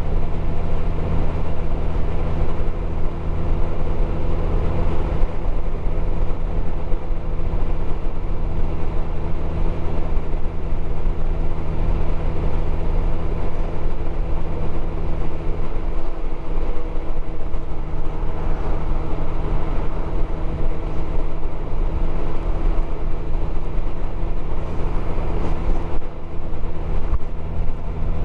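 Motorcycle engine running steadily at cruising speed, with wind and road noise over it.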